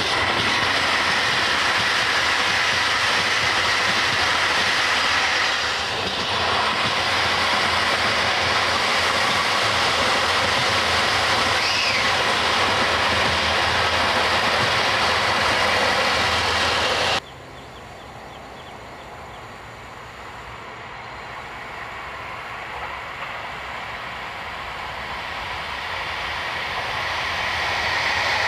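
A train running past on the rails, a loud steady rumble with wheel noise, which cuts off abruptly about two-thirds of the way through. A much quieter rumble follows and grows steadily louder toward the end.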